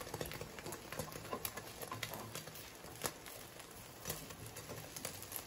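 Faint sizzling of butter and beaten egg frying under a parotta in a nonstick pan, with a few light clicks of a plastic spatula against the pan.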